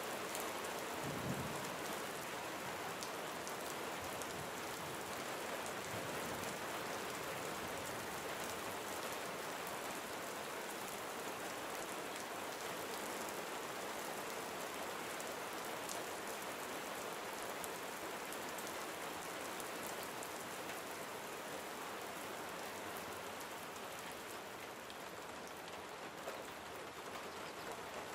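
Steady gentle rain falling and pattering on surfaces, with a brief low rumble about a second in.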